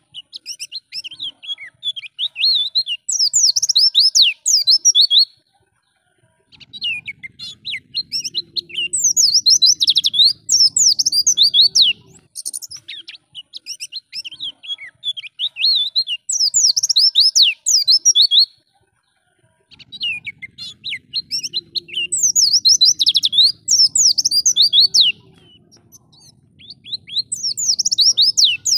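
White-eye (pleci) singing: long phrases of fast, high twittering and chirping, each lasting several seconds, with short pauses between them.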